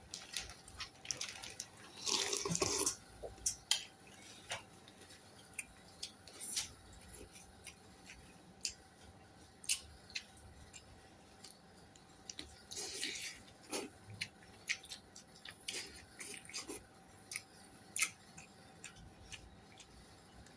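A person eating up close: chewing and mouth sounds with scattered small clicks of cutlery on a plate, and a couple of longer noisy stretches, about two seconds in and again around thirteen seconds.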